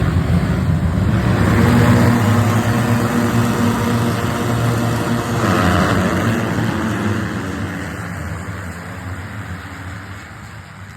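Motocross dirt bike engines running hard at high revs, their pitch shifting as they change speed. The sound is loud at first, then fades away over the last few seconds.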